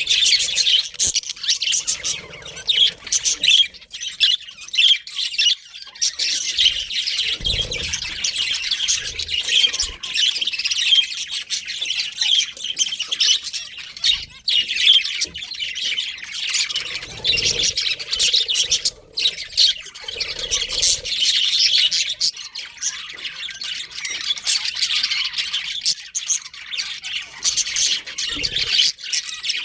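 A flock of budgerigars chattering and chirping continuously, many birds calling over one another in a dense, high-pitched twitter with sharper squawks mixed in.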